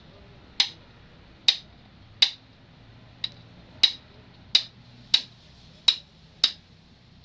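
Perkins 20 kVA generator diesel injector nozzle popping on a hand-lever tester, a sharp crack with each pump of the lever, about ten in a row at roughly one every 0.7 seconds.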